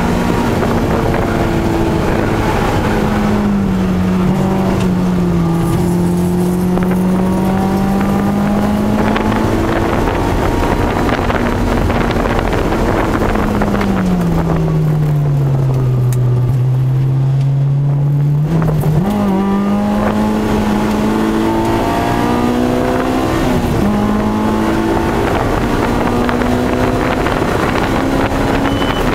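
Honda S2000's four-cylinder engine heard from inside the cabin at high revs on track, over steady wind and road noise. Around the middle the revs fall away for several seconds as the car slows, then jump back up and climb. A sudden drop at a gear change comes about five seconds before the end, and the revs climb again after it.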